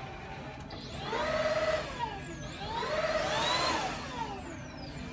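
Vacuum cleaner motor switched on in short bursts twice, its whine rising as it spins up and falling as it winds down each time.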